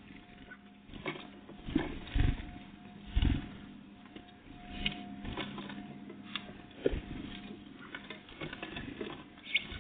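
Great tits and blue tits at a feeder, irregular taps and clicks of pecking and hopping, with a few louder low thumps about two, three and seven seconds in, over a faint steady hum.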